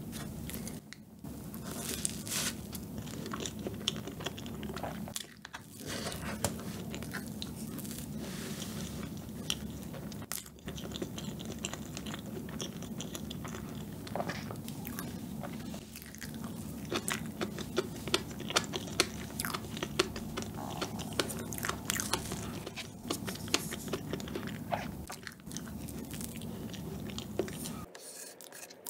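Close-miked chewing of a spoonful of soft yogurt fresh-cream sponge cake, with many small wet mouth clicks.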